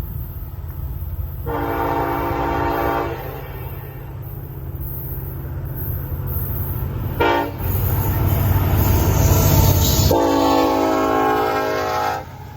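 Norfolk Southern diesel locomotive's air horn sounding for a road crossing: a chord blast of about a second and a half, a brief toot, then a long blast near the end. Under it the locomotive's diesel engine rumbles, growing louder as the train approaches.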